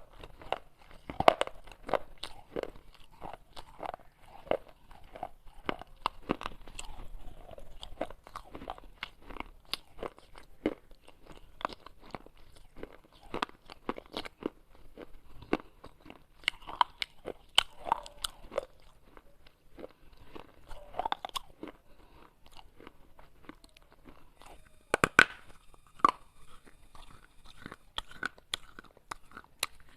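Pieces of baked clay pot being bitten and chewed, with a steady run of irregular, sharp crunches and crackles, several louder bites standing out.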